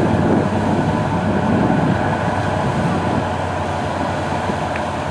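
Boat engine running steadily at full throttle, its propeller churning water and mud: the boat is aground and is being driven hard to dredge itself loose from the river-mouth silt.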